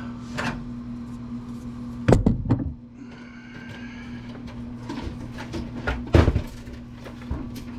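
Clunks and knocks of a computer case being turned over and handled on a workbench: a cluster of knocks about two seconds in and another loud knock about six seconds in, with lighter handling noises between, over a steady low hum.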